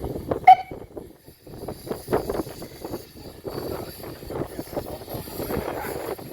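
Small miniature-railway locomotive, No. 4 Norfolk Pioneer, running with a string of irregular knocks and clatter. A brief, sharp, high-pitched sound comes about half a second in.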